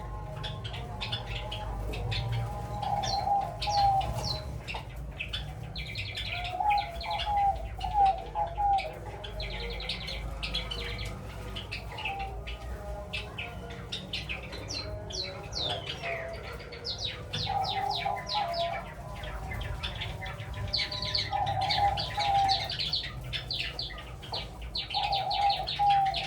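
Doves cooing in repeated short phrases while Java sparrows chirp in quick, high runs of notes.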